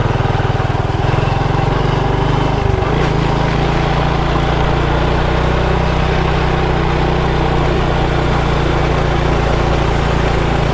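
Motorbike engine running steadily during a ride, its note shifting briefly about three seconds in, under a steady rush of noise.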